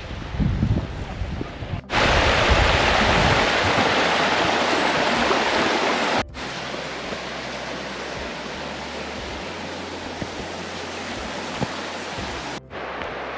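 Wind buffeting the microphone, then, after a sudden cut about two seconds in, the steady rush of water from a burn or waterfall. The rush is loud at first, then quieter after another cut partway through.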